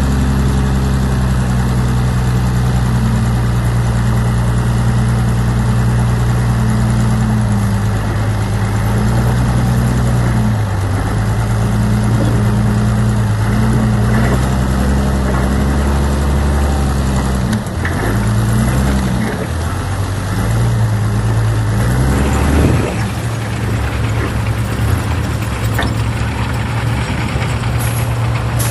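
Large diesel engine of heavy earthmoving machinery running steadily. Its pitch dips and rises several times in the middle as it takes load, and about three quarters of the way in the sound turns rougher and noisier, without the steady low engine tones.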